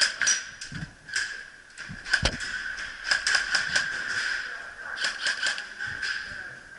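Airsoft guns firing in short bursts of rapid clicking shots, about six volleys each a second or so apart.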